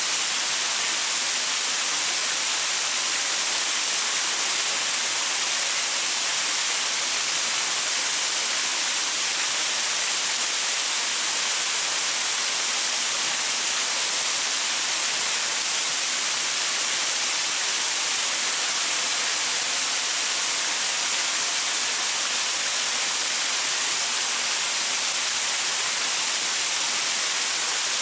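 Waterfall splashing onto rocks: a steady, unbroken hiss of falling water, strongest in the high range.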